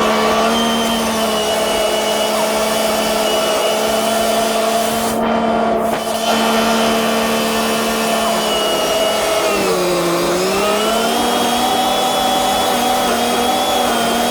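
2006 Kubota L3540 tractor's diesel engine running at working speed and driving a rotary brush hog, a loud, steady whine. About ten seconds in, the pitch dips for a moment and comes back up.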